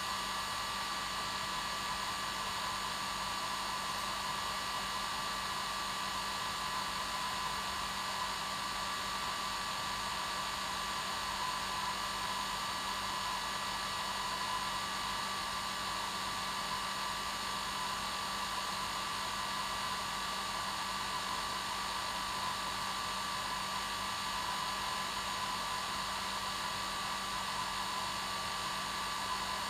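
Hair dryer running steadily, an even airflow whoosh with a steady motor whine on top, played as continuous white noise for sleep.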